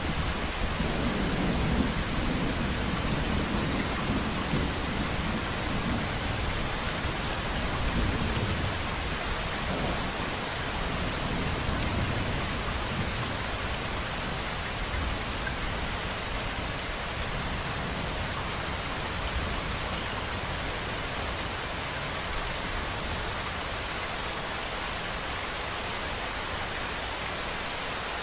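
Steady rainfall: an even hiss of rain falling on surfaces. Beneath it a low rumble is heard early on that fades away about halfway through.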